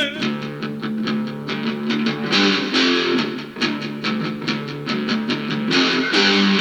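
Rock band playing an instrumental passage led by strummed guitar, with a bass line, steady drum beat and cymbal crashes about two seconds in and again near the end.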